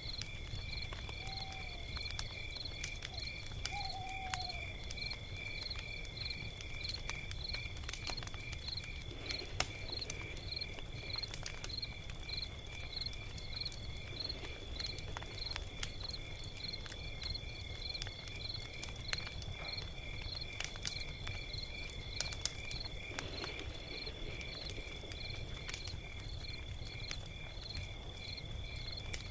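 Log fire crackling, with scattered sharp pops over a steady low rumble. Behind it runs a steady high-pitched chirping that pulses about twice a second.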